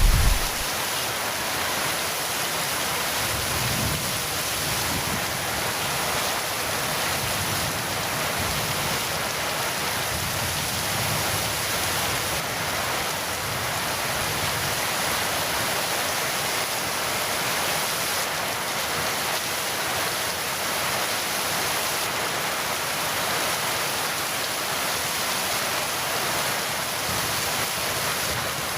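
Heavy rain falling steadily, an even hiss with no change in level. The tail of a low thunder rumble dies away in the first moment.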